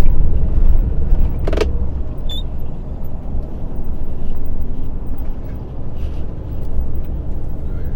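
Truck engine and road noise heard from the cab while driving, a steady low rumble, with one short click about one and a half seconds in.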